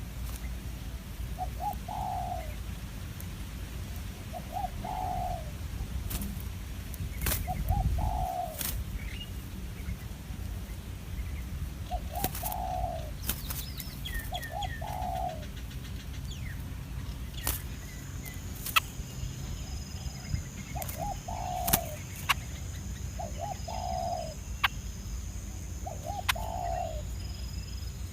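A dove cooing over and over, each phrase a few quick notes running into a longer one, repeated about every two and a half seconds. Scattered sharp clicks sound throughout, and a thin high steady tone comes in a little past the middle.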